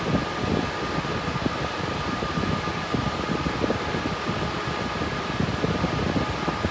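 Cooling fans of a GPU mining rig built on RTX 3060 Ti graphics cards, running steadily: an even rush of air with a faint steady whine.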